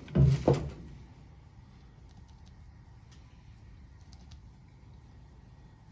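Faint, scattered light clicks and taps of dry dog food kibble being cleaned out of a part, after a short voice sound right at the start.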